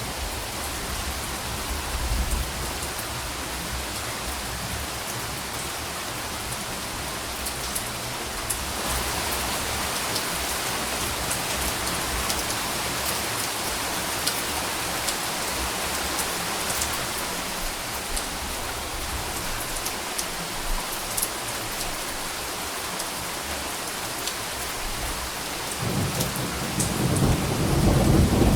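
Steady rain falling, with soft thunder rumbling low underneath; near the end a louder roll of thunder builds up.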